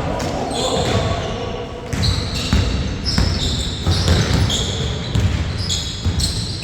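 Basketball game in play: a ball bouncing on a hard court in repeated low thuds, with many short high squeaks of sneakers on the floor and some players' voices.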